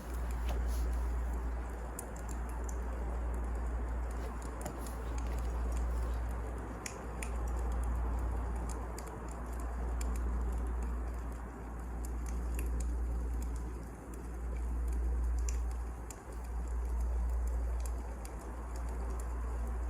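Wood fire crackling, with scattered sharp pops over a steady low rumble that swells and dips every two seconds or so.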